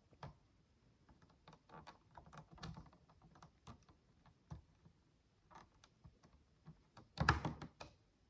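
Tiny plastic micro bricks being handled and pressed together: a scatter of light clicks and taps at uneven intervals, with a louder run of clicks about seven seconds in.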